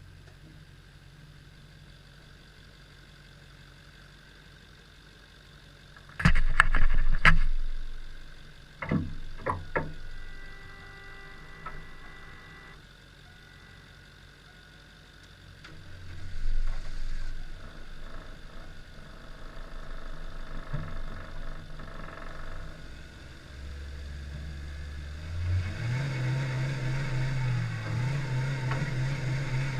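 Several loud knocks about six seconds in and three more a few seconds later, then a Chevy Cavalier's engine running, its pitch stepping up near the end as it revs.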